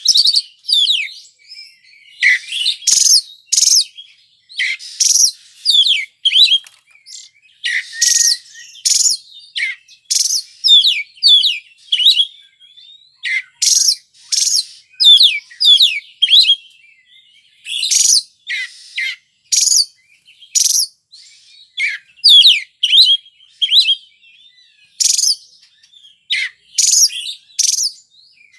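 Oriental magpie-robin (kacer) in full, continuous song: quick varied whistled notes and trills mixed with harsh, rasping strokes, phrase after phrase with only short pauses.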